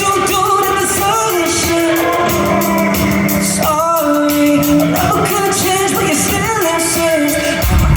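Live pop concert: a singer holds wavering melody notes over band accompaniment. A heavier bass comes in near the end.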